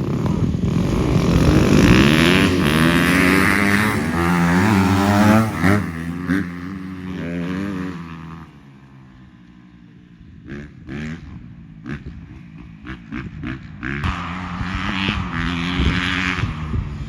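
Dirt bike engine revving hard under acceleration, its pitch climbing and falling with throttle and gear changes. About eight seconds in it drops away, then comes back in short throttle blips and builds again near the end.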